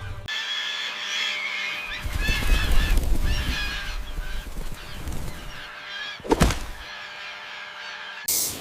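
Birds calling repeatedly, with a single sharp knock about six and a half seconds in.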